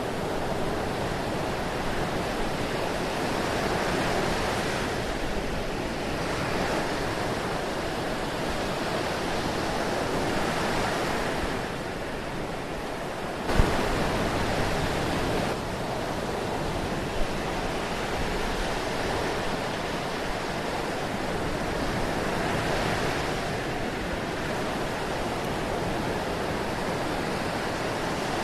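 Ocean surf: waves breaking and washing in, the hiss swelling and easing every few seconds. A single sudden thump about halfway through.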